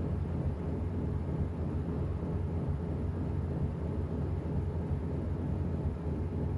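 Washing machine running: a steady low rumble from the turning drum and motor.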